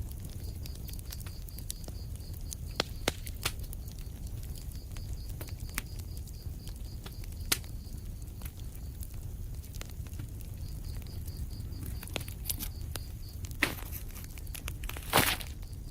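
Fireplace fire crackling over a steady low rumble, with scattered sharp pops; the loudest come in a quick cluster near the end.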